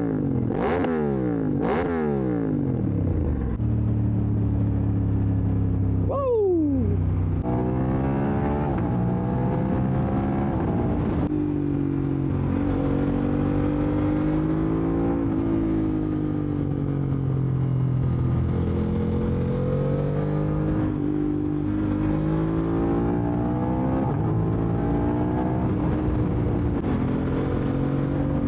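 Aprilia RS660's parallel-twin engine through an SC-Project SC1-R full exhaust, ridden hard. Its pitch swings up and down quickly several times in the first few seconds and drops sharply once a few seconds later. After that it holds long steady pulls, climbing and dropping as the bike speeds up and shifts.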